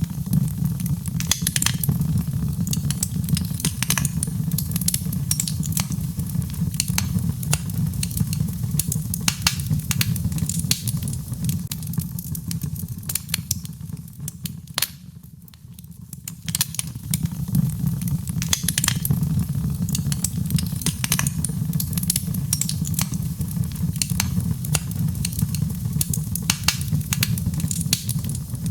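Birch logs burning in a fireplace: dense, irregular crackles and pops over a steady low rumble of the flames. The crackling eases for a couple of seconds about halfway through.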